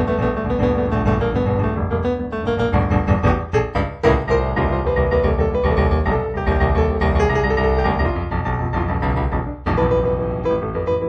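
Improvised piano music with sustained chords and a steady stream of notes, pausing briefly near the end before going on.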